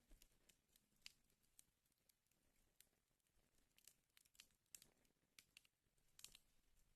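Wood fire in a fireplace crackling faintly: irregular small pops and snaps over a soft hiss.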